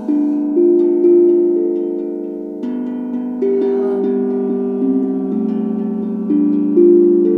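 Singing bowls struck one after another, each ringing on with a slightly wavering tone and slowly fading while the next note sounds over it, about nine strikes at uneven spacing.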